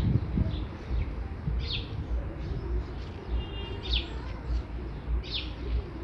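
Small birds chirping in short, sharp notes about four times, with one brief buzzy trill in the middle, over a low, gusty rumble of wind on the microphone.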